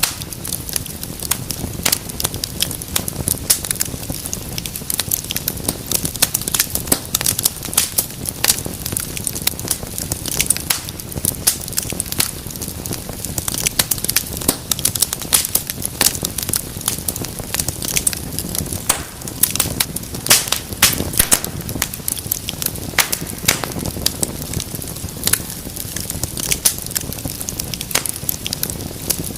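Wood fire crackling steadily: dense, irregular sharp pops and snaps over a low rushing of the flames.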